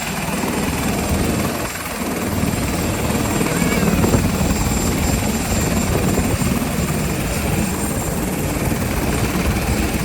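Helicopter running, with a dense, fast-fluttering rotor noise and a steady high-pitched whine over it.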